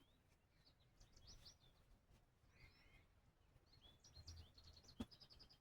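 Faint bird chirps, short and high, coming quicker in a rapid run near the end. One sharp click about five seconds in.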